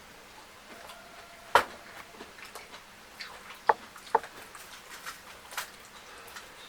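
Close-miked eating sounds: a string of wet mouth clicks and smacks while chewing fish and fufu. The loudest come about a second and a half in and twice around four seconds in.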